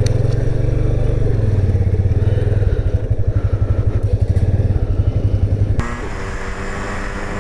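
Motorcycle engine running close by with a fast low pulsing beat. About six seconds in, it gives way abruptly to a quieter, smoother engine sound.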